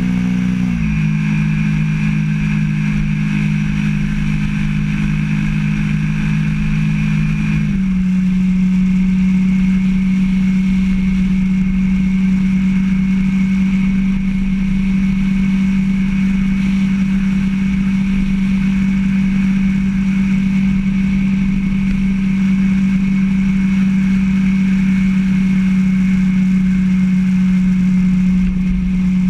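Motorcycle engine running at a steady road speed. Its note steps in pitch about a second in and again near eight seconds in, then holds steady.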